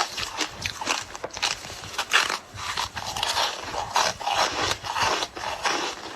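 Ice being bitten and crunched in the mouth: an irregular run of crisp crunches, several a second.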